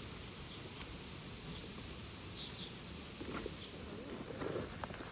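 Steady outdoor background hiss with a few faint bird chirps and some small taps and knocks.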